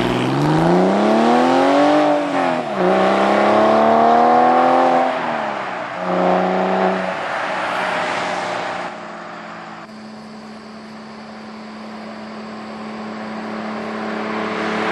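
Porsche 996's flat-six engine through muffler bypass pipes, with no mufflers, accelerating hard: revs climb, drop at a gear change about two seconds in, and climb again. Around five seconds in it lets off to a quieter steady drone that fades, then grows louder again near the end.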